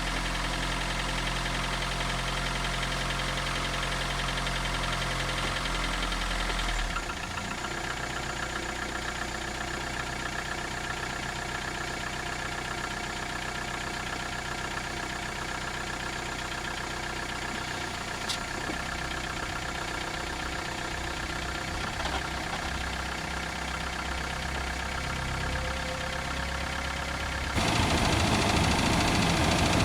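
1991 Toyota Camry engine running, heard through a microphone under the closed hood, carrying a noise the owner can't place as rod knock, piston slap or valve noise. Its sound drops a little about seven seconds in and gets louder near the end.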